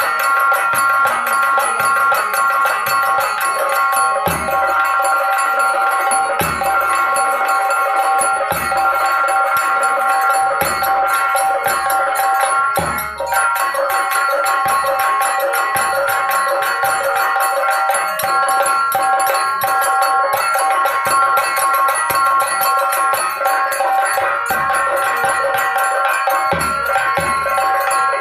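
Instrumental folk dance music: nagara drums beating under steady held melodic tones, with no singing.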